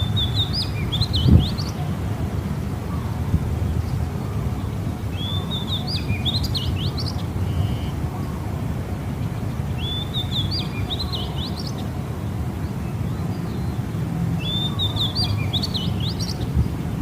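A small songbird singing the same short phrase four times, about every five seconds: a rising note and then a quick run of high chirps. A steady low rumble runs underneath, and there is one thump about a second in.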